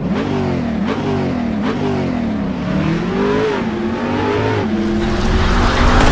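2017 Jaguar XF Supercharged's 3.0-litre supercharged V6 engine and exhaust revving, its pitch rising and falling several times, then running steadier near the end.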